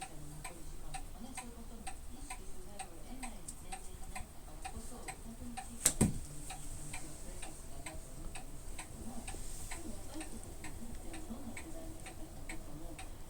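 Steady, regular ticking, a little over two ticks a second, like a clock, with one louder sharp knock about six seconds in.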